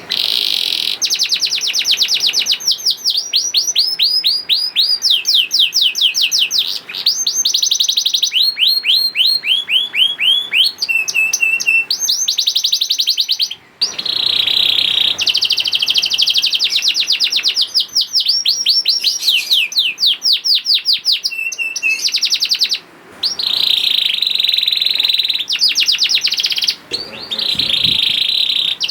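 Domestic canary singing a long, loud song of fast trills, each made of rapidly repeated sweeping notes. It breaks off briefly twice.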